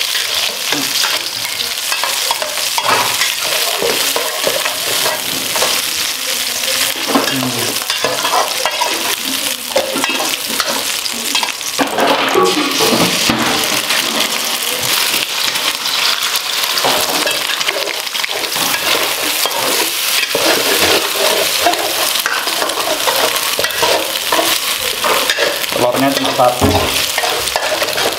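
Sliced sausages sizzling in hot oil in a wok, steady throughout, while a metal spatula stirs them with frequent scrapes and clicks against the pan.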